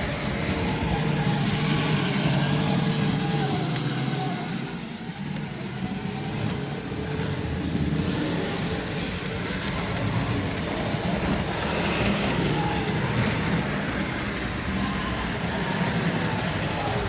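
Tri-ang OO-gauge model train running round the layout: a steady hum of the locomotive's small electric motor and the rumble of its wheels on the track, wavering slightly in pitch.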